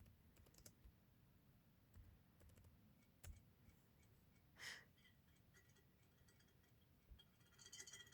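Near silence with faint scattered clicks and one brief soft rush of noise a little past the middle.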